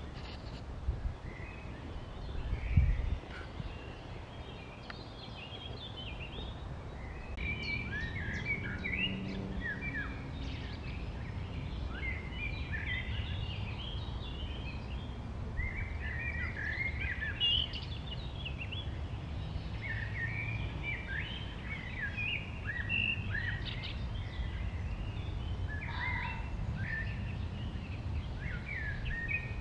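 Songbirds singing in short, busy chirping phrases almost without pause, over a steady low rumble. A single knock sounds about three seconds in.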